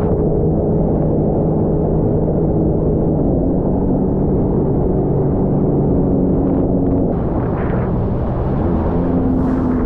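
Jet ski engine running under way, its pitch shifting with the throttle.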